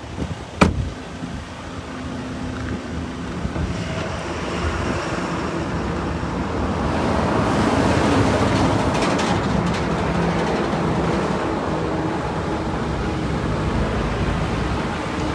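Roadside traffic noise: passing vehicles making a steady rush that swells to its loudest about eight seconds in, with a single sharp knock near the start.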